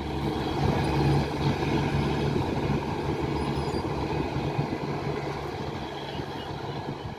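Express passenger train's coaches running away along the track, wheels rumbling on the rails with a steady low drone, fading gradually as the train recedes.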